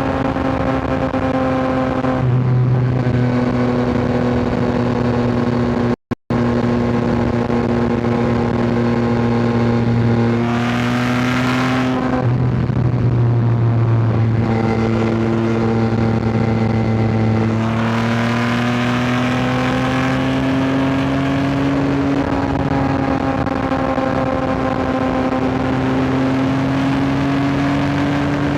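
Yamaha R9's inline-three engine pulling under riding load, its pitch rising and falling with throttle and gear changes, over wind and road noise. The sound cuts out for an instant about six seconds in.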